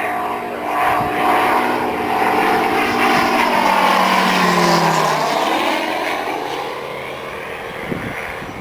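Radio-controlled model aircraft flying past fast, its engine note sweeping down in pitch as it passes about five seconds in.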